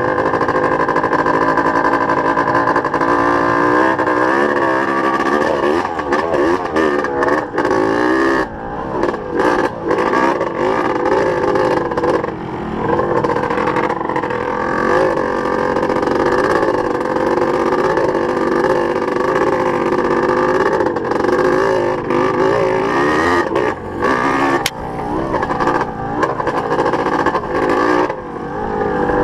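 Dirt bike engine running loud, its pitch rising and falling with the throttle, with brief drops in level a few times where the throttle is rolled off.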